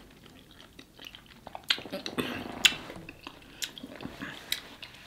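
A person chewing food close to the microphone: wet smacking and sharp clicking mouth sounds, busiest about two seconds in.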